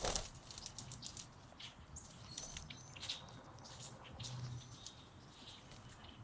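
Budgerigar nibbling spinach leaves: a fast, irregular run of small crisp bites and tearing clicks, with a few short high chirps mixed in.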